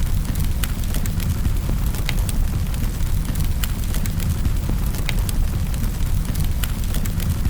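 Fire burning in a fireplace: a steady low rumble of flames with irregular sharp crackles and pops, one or two a second.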